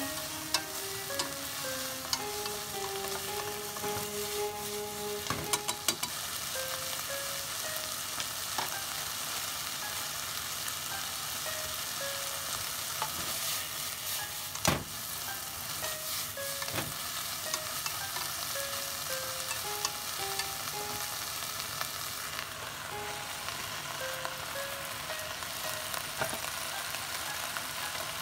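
Komatsuna and canned tuna sizzling steadily as they are stir-fried in a frying pan, with scattered clicks of wooden chopsticks against the pan. A soft, sparse background melody plays throughout.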